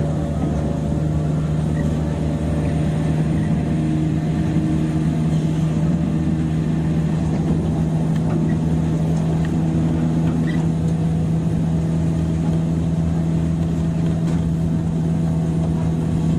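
Running sound inside a 103 series electric commuter train's motor car, heard at steady speed: a steady low hum over wheel and track noise.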